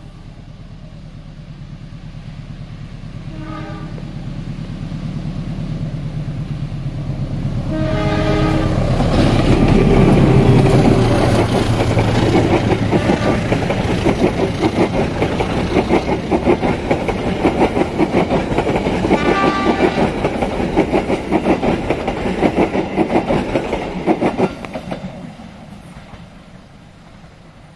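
Serayu passenger train, led by a diesel locomotive, approaching and passing close by. Its horn sounds in short blasts, and the engine rumble builds to a peak as the locomotive goes past about ten seconds in. The coaches' wheels then clatter rhythmically over the rails until the last coach passes near the end and the sound drops away.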